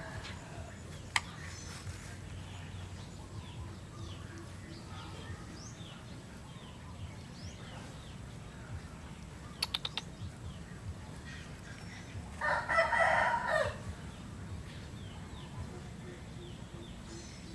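A rooster crows once, about two-thirds of the way through, a call lasting over a second. Small birds chirp on and off throughout, with a few sharp clicks.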